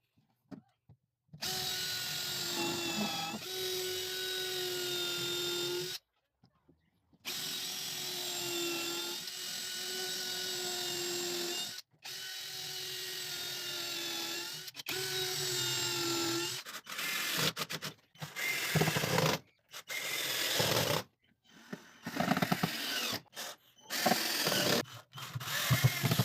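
Electric drill-driver running in repeated runs of a few seconds each with a steady motor whine, as screws are driven to fix a pallet-wood tabletop. In the second half it comes in many short stop-start bursts.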